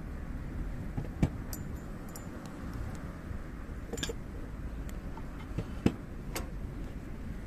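Hardwood firewood burning in a campfire: a low steady rumble of flames with a few sharp crackles and pops, the loudest about a second in and just before six seconds.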